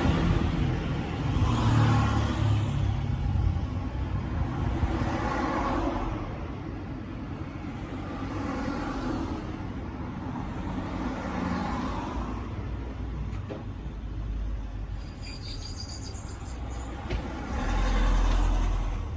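Road vehicles going past one after another, each swelling up and fading away over a couple of seconds. A few faint clicks come in the second half.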